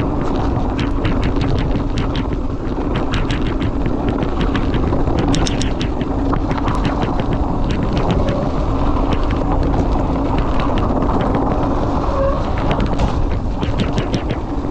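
Cube Stereo 150 Race mountain bike being ridden over rough trail: a steady heavy rumble of wind and tyre noise, with frequent clicks and rattles from the bike.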